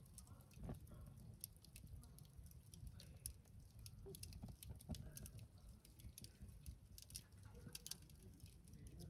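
Campfire of burning wood crackling faintly, with many small, irregular pops and ticks over a low rumble.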